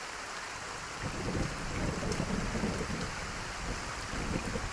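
Heavy rain falling steadily, with a low rumble joining about a second in.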